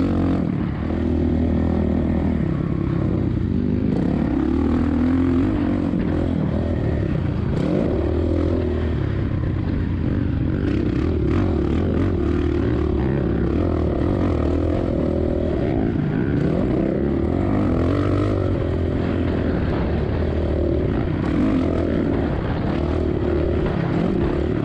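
Suzuki RM-Z450's four-stroke single-cylinder dirt bike engine revving up and down continuously under load while riding, with wind noise on the microphone.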